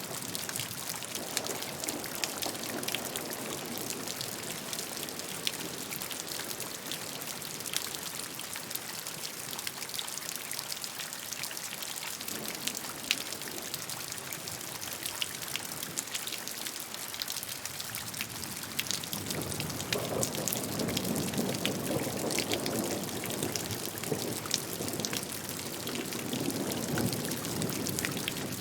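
Steady rainfall, with many separate drops striking in quick succession, over running water. The low rushing part grows louder about two-thirds of the way through.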